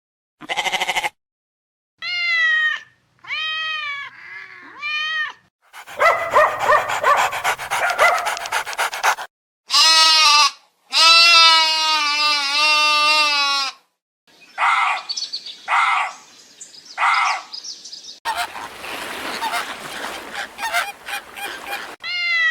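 A series of different animal calls in quick succession, separated by short silences: short arching cries repeated several times, a long wavering call, and rougher noisy cries.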